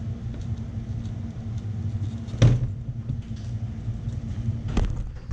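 A steady low mechanical hum and rumble, with a sharp knock about two and a half seconds in and another near the end.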